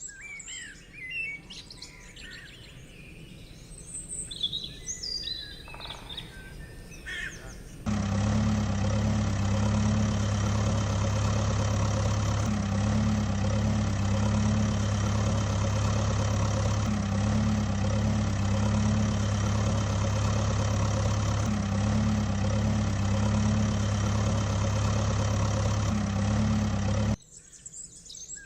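Birds chirping, then a steady low engine hum starts abruptly about eight seconds in. It runs for about nineteen seconds, dipping slightly every few seconds, and cuts off suddenly near the end, leaving the birdsong.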